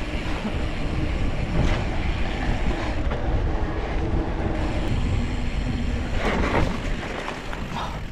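E-mountain bike rolling along a dirt trail: steady tyre rumble and rattling of the bike, with heavy low wind noise on the microphone.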